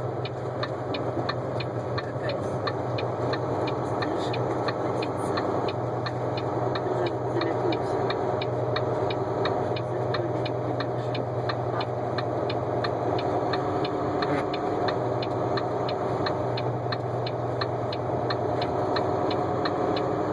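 Steady engine drone and road noise inside a moving vehicle's cab, with a light regular ticking of about three ticks a second.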